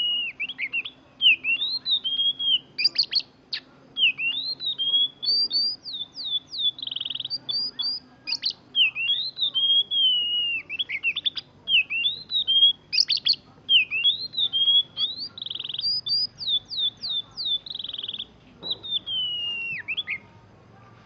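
Oriental magpie-robin (kacer) singing a continuous string of short whistled phrases that glide up and down, with a few brief rolled trills mimicking a canary's roll. The song stops just before the end.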